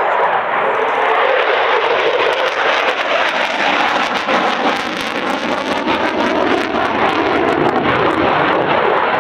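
Loud, steady jet noise of an RAF Eurofighter Typhoon FGR4's twin turbofan engines in flight, with a crackling edge.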